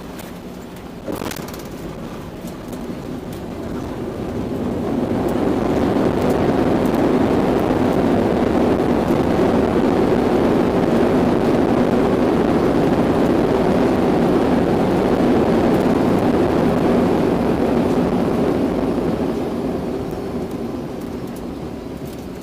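Boeing 737-900's CFM56 jet engines heard from inside the cabin during the landing roll, a deep roar that swells for a few seconds, holds, then dies away near the end: reverse thrust spooling up and back down to slow the aircraft after touchdown.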